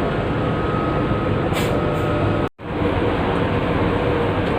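Steady rumbling drone of a Pelni passenger ship's engines and machinery, with a brief dropout about two and a half seconds in.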